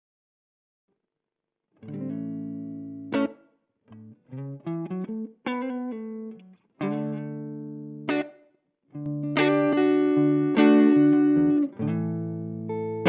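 Electric guitar played through a TC Electronic MojoMojo overdrive pedal. After about two seconds of silence come ringing chords and short stabbed notes with brief gaps between them; the loudest chord rings about two-thirds of the way through.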